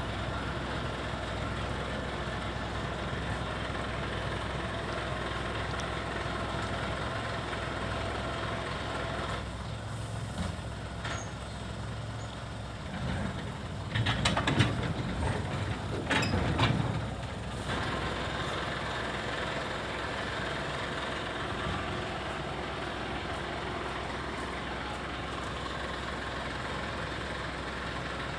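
Diesel engine of a ten-wheel dump truck running steadily. A louder stretch of knocks and clatter comes about halfway through.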